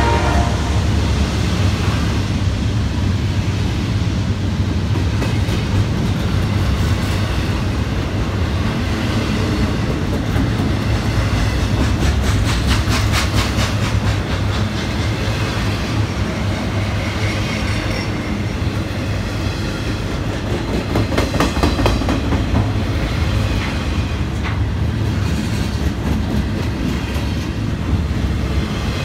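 Double-stack intermodal container cars of a Norfolk Southern freight train rolling past: a steady low rumble of steel wheels on rail, with runs of fast clickety-clack at rail joints around the middle and again about three-quarters through. A horn note cuts off right at the start.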